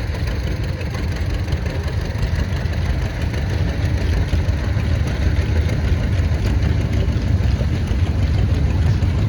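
Vintage farm tractor engine running steadily at low speed, slowly getting a little louder.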